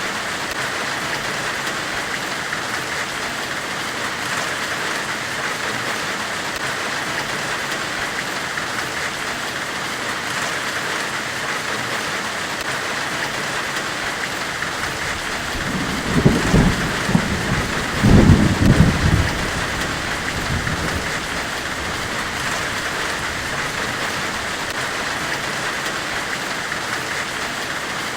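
Steady, even hiss of forge-weld white noise. About two-thirds of the way through, a low rumble rises over it for about three seconds.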